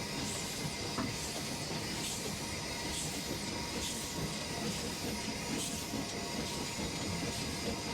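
Steam locomotive No. 40 under way, heard from the cab: steady steam hiss over the rumble of the running gear, with a soft regular beat. The locomotive is working lightly on a more level grade.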